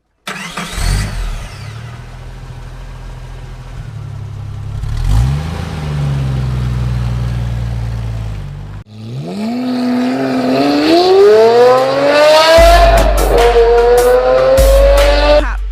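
Car engine revving: a low steady running note, then a steep rise in pitch about nine seconds in. Near the end a heavy bass line and drum hits come in as electronic music starts.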